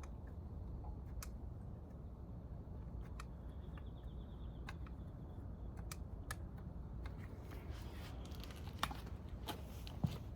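Scattered light clicks and taps of tools and parts being handled during motorcycle engine disassembly, more frequent near the end, over a steady low hum.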